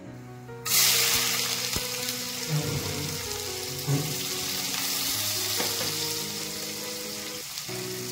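Chopped shallots frying in hot oil in an aluminium kadai: a loud sizzle starts suddenly about a second in as they hit the oil, then settles into a steady, slowly easing sizzle.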